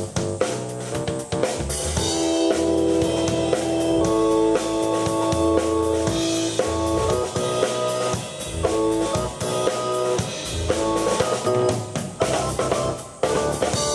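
Live rock jam on keyboard and drum kit: held keyboard chords over a driving drum beat with kick, snare and cymbals. It builds to a dense drum fill, then the piece stops at the very end.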